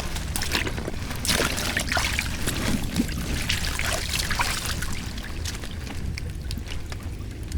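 Water splashing and pouring over a steady low rush, with irregular splashes that are busiest from about a second in until past the middle.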